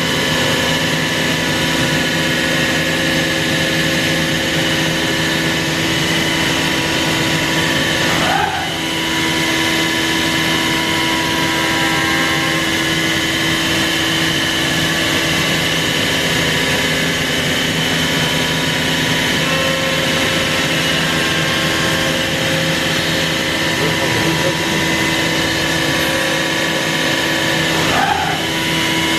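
CNC router milling a guitar neck: the spindle and cutter run steadily, giving a constant whine with several held tones over the cutting noise, which dips briefly about eight seconds in and again near the end.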